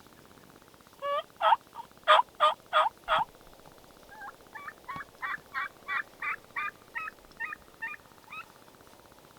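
Turkey yelping: a loud run of about six yelps, then after a short pause a softer, quicker run of about a dozen yelps.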